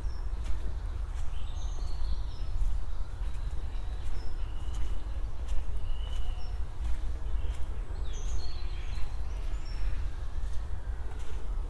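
Small birds chirping, with scattered short high calls throughout, over footsteps on a path and a steady low rumble.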